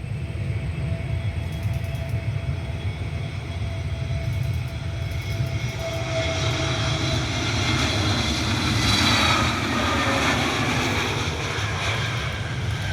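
Airbus A320neo jet airliner on approach, its engine noise and whine growing louder to a peak about two-thirds of the way through, then easing off.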